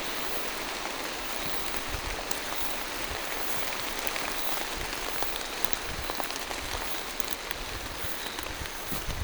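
Steady rain falling on forest foliage: an even hiss with scattered sharp ticks of nearby drops.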